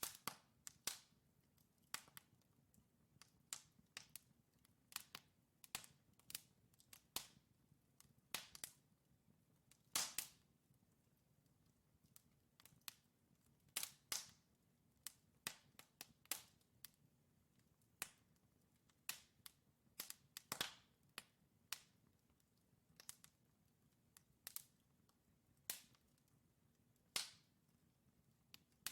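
Wood fire crackling in a fireplace: irregular sharp pops and snaps from burning logs, several a second at times, with a few louder pops, over a faint low rumble of the flames.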